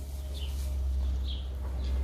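Small birds chirping: three short chirps about half a second to a second apart, over a steady low hum.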